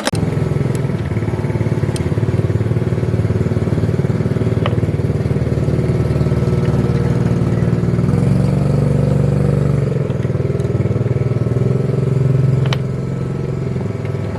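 A motor-driven machine running steadily with a dense, rapid pulsing. It starts abruptly and eases slightly in level near the end, with a few sharp clicks over it.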